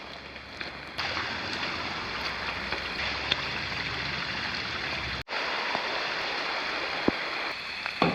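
Heavy rain falling steadily, an even hiss with a few scattered drop ticks; it cuts out for an instant about five seconds in and resumes.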